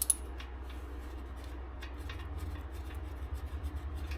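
Scattered light metallic clicks and rubbing as the loosened wheel-bearing bolt and hand tools are handled, with one sharp click near the start. A steady low hum runs underneath.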